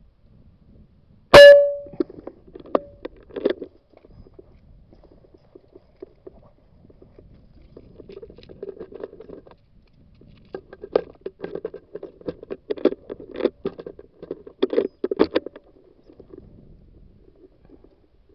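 One sharp air-rifle shot about a second in, with a brief metallic ring. It is followed by irregular soft knocks and rustling, which come in a short spell right after the shot and a longer, busier spell later on.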